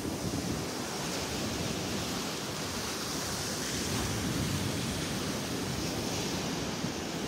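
Steady rushing noise of wind and surf, with no separate events standing out.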